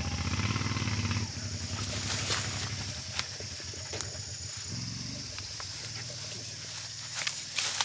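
Insects trilling steadily in a high, unbroken drone, typical of katydids in summer countryside. A low, fast-pulsing rumble sounds under it in the first second and briefly again about five seconds in, with a few sharp clicks near the end.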